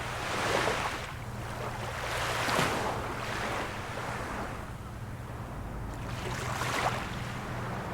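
Small waves of a calm sea washing in and out, the wash swelling and fading several times, over a steady low hum.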